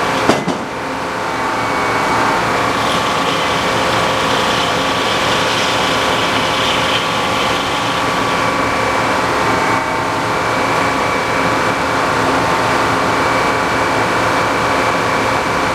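Tractor-driven sawmill running steadily, the tractor engine and spinning saw making an even mechanical drone. There is one sharp knock just after the start.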